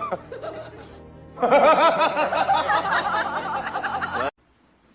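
Music with a person laughing in rapid, wavering bursts for about three seconds, then cutting off suddenly.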